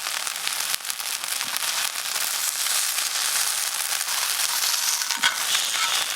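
Monjayaki sizzling and crackling on a hot iron griddle: a steady hiss dotted with dense small pops.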